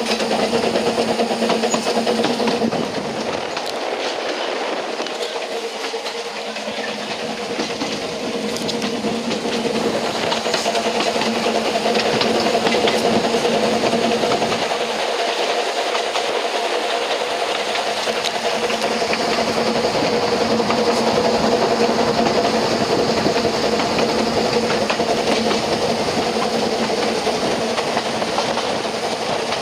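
Steam-hauled narrow-gauge train on the Ffestiniog Railway running along, heard from the carriage window behind a Double Fairlie locomotive. The wheels give a steady running rumble with frequent clicks over the rail joints, and a faint hiss of steam.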